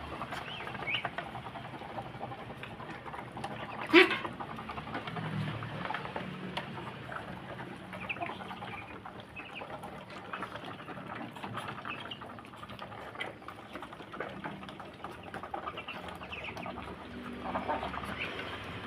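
A flock of Muscovy ducks calling: many short, overlapping calls, with a sudden much louder sound about four seconds in.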